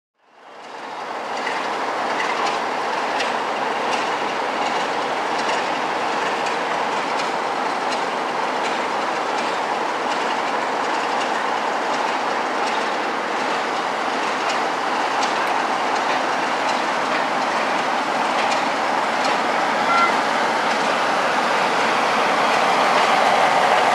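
A passenger train of coaches rolls past a station platform, its wheels clicking over the rail joints in a steady rumble. Near the end the sound grows louder as the Class 47 diesel locomotive at the end of the train draws near.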